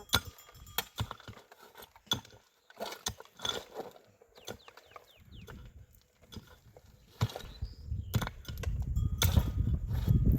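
Stones knocking and clicking together as they are handled and set in a dry-stone wall: scattered, irregular knocks. A low rumble builds up in the last couple of seconds.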